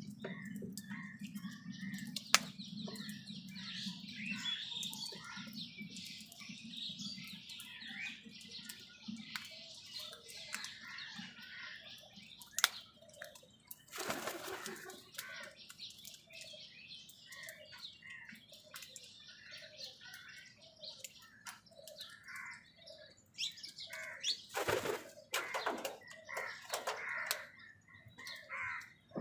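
Birds chirping and calling in many short notes, with bursts of wing flapping about halfway through and again near the end.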